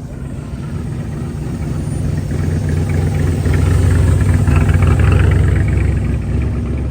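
A car engine running, its low rumble swelling to a peak about four to five seconds in and then easing off.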